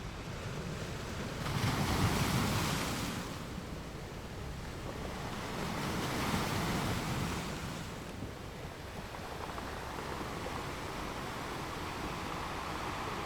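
Ocean waves breaking on a beach: a steady wash of surf, with one wave cresting and breaking about a second and a half in and another, softer one in the middle.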